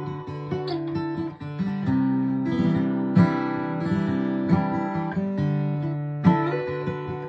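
Acoustic guitar playing a slow instrumental intro, chords strummed and left to ring, with strong strums about three and six seconds in.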